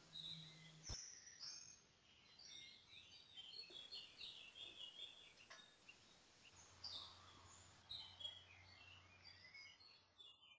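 Faint songbird chirps and calls scattered throughout, with a single sharp click about a second in.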